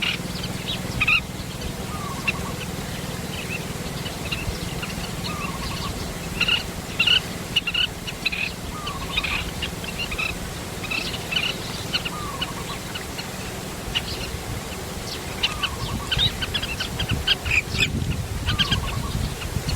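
Birds calling: many quick high chirps throughout, with a short, lower falling call repeated every two to four seconds, over a steady low rumble.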